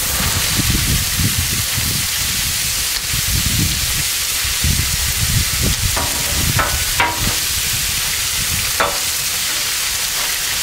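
Cubed chicken thighs and stir-fry vegetables sizzling on a hot Blackstone flat-top gas griddle, a steady frying hiss, with a few sharp clicks about two-thirds of the way through.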